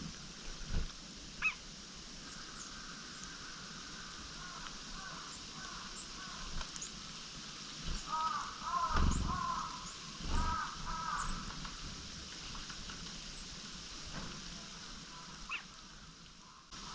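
Wild birds calling: a run of harsh, chattering calls in the middle, with thin high calls scattered throughout and a few dull thumps.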